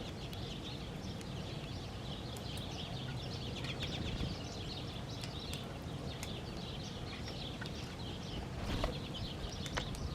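A flock of small birds chirping and twittering constantly, many short overlapping notes, over a steady low rumble.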